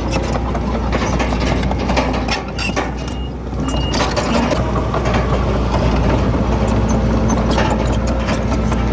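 Komatsu D31PX bulldozer's diesel engine running steadily under work, with irregular clanking and knocking over it. The level drops briefly about two and a half seconds in, then comes back up.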